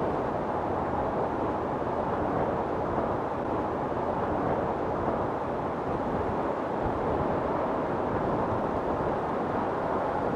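Wind storm blowing as a steady, even rushing noise, with no gusts or breaks standing out.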